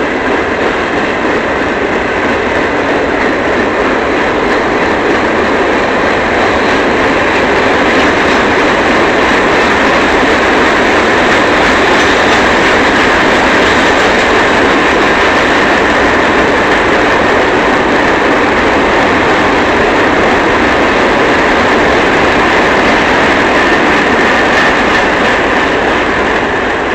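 Empty coal train cars rolling past at steady speed: a continuous loud noise of steel wheels on rail, with some clickety-clack over the rail joints.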